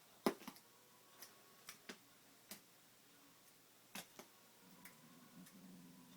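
Light taps and clicks, about ten of them at uneven intervals, from a cat at play with a Da Bird feather wand toy. A faint low hum comes in near the end.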